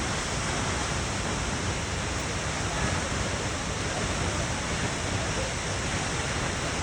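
Steady rush of water falling at Wailua Falls, a tall twin waterfall: a dense, even noise with no breaks or changes.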